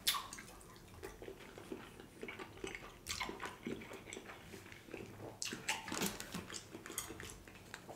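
Close-up eating sounds: a bite into crab meat dipped in creamy Alfredo sauce, then chewing with many small wet mouth clicks and smacks.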